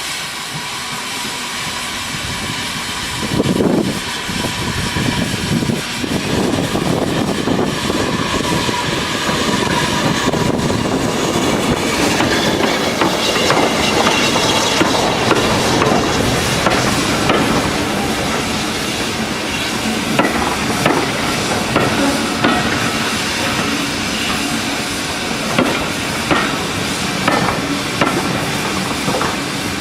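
Steam locomotive with its train: steam hissing, then a loud surge a few seconds in and the engine working louder. In the last third, sharp knocks come about once a second, typical of wheels clicking over rail joints.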